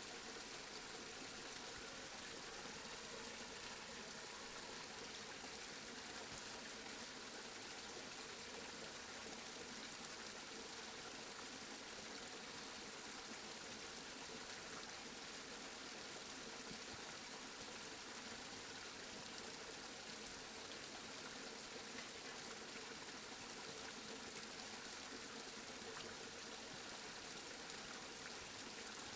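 Steady rainfall: an even, unbroken hiss of falling rain, with no thunder.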